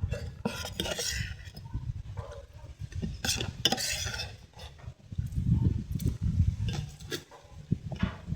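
Eating at close range: utensils clicking and scraping on a plate over low, steady mouth and chewing noise, with two longer scraping bursts.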